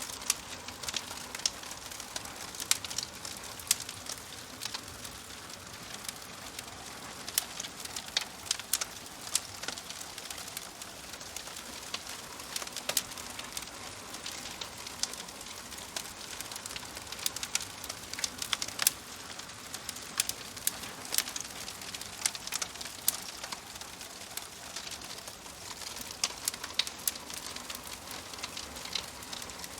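Wood fire crackling in a fireplace: a steady hiss with frequent sharp pops and snaps from the burning logs.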